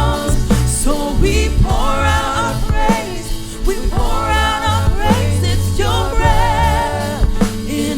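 Contemporary worship song played by a band: a voice holds long notes with vibrato in phrases about a second long over bass and drums.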